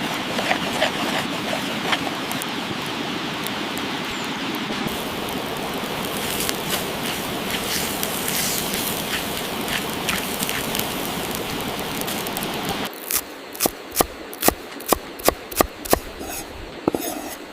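A steady rushing hiss with scattered crackles, typical of an outdoor cooking fire. About 13 seconds in it gives way abruptly to a run of sharp, evenly spaced chopping knocks, about three a second, typical of a cleaver striking a cutting board.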